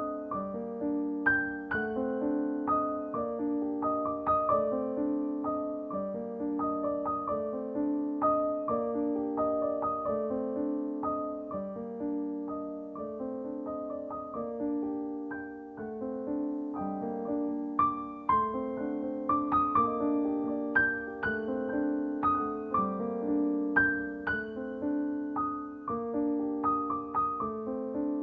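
Background piano music: a gentle melody of struck notes over repeating chords at a moderate level.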